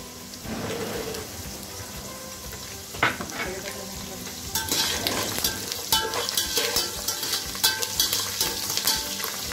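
Hot oil sizzling in an aluminium pot as garlic is added to frying peanuts and cashews, with a sharp knock about three seconds in. From about halfway, a metal slotted spoon stirs them, scraping and clicking against the pot.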